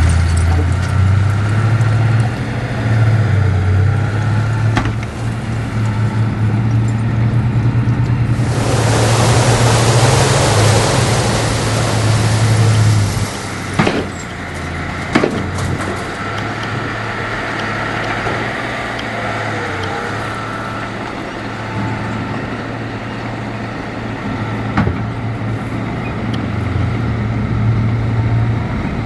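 Diesel engines of heavy earthmoving machinery running steadily. About a third of the way in there is a loud hiss lasting around four seconds, followed by a couple of sharp knocks.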